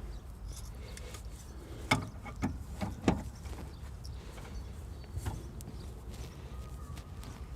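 A few sharp clicks and knocks, three of them between about two and three seconds in and a fainter one later, from a car's steering tie rod end being unscrewed from its tie rod, over a steady low rumble.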